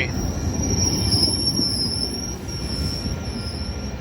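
Metrolink commuter train rolling away, its rumble easing slightly, with a thin high squeal from the wheels that wavers in pitch.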